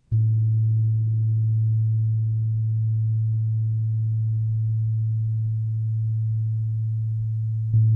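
A gong-bath instrument struck once and left ringing: a deep, steady low tone with faint overtones above it. Another strike near the end adds a brighter layer.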